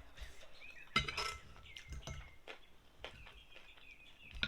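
Eating utensils clinking against a dish in a few separate strikes, the loudest about a second in and another near the end.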